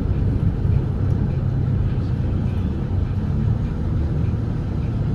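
Volvo B8RLE double-decker diesel bus under way, heard from inside the cabin: a steady low rumble of engine and road noise.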